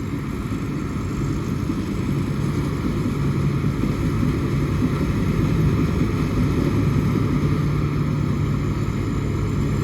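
Rice combine harvester engine running steadily while harvesting, a constant low drone that grows slightly louder after about three seconds.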